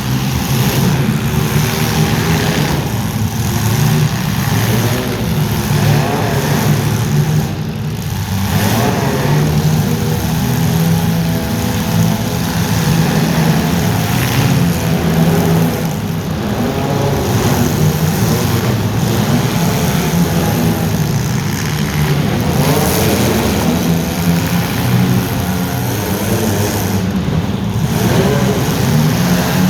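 Racing vehicle engines running and revving continuously, their pitch rising and falling as they accelerate and ease off.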